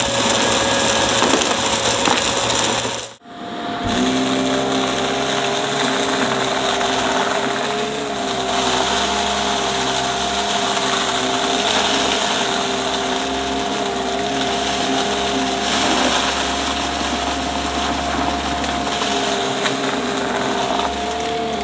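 Vacuum cleaner running with a steady motor whine. About three seconds in it breaks off briefly, then resumes with the whine at a different pitch.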